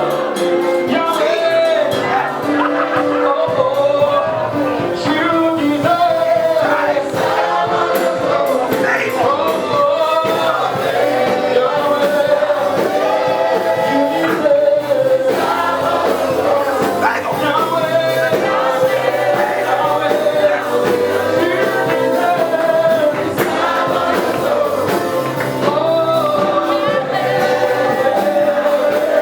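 Gospel praise and worship music: voices singing together over instrumental accompaniment.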